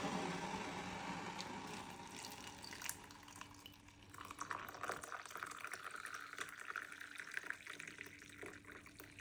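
Hot water poured from an electric kettle into a cup of green tea, a splashing trickle that starts about four seconds in. Before it, a fading hiss.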